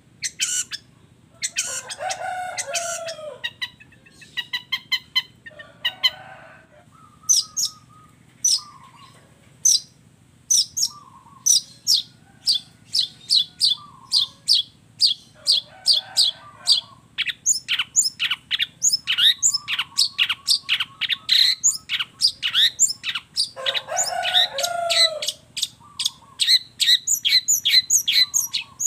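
Long-tailed shrike (cendet) singing in its typical mix of chatter and mimicked calls. It gives long runs of sharp, high, descending chips a few a second, broken by harsher, grating chatter bursts three times.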